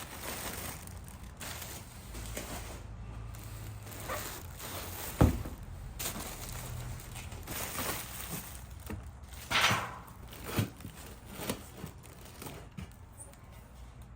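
Handling noises from unpacking and fitting exhaust parts: scattered knocks, with rustling and crinkling of packaging. There is one sharp thump about five seconds in and a louder rustle near ten seconds.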